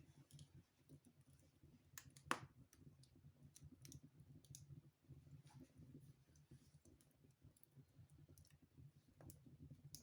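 Wood fire in a fireplace crackling faintly, with scattered sharp pops, the loudest about two seconds in, over a low rumble.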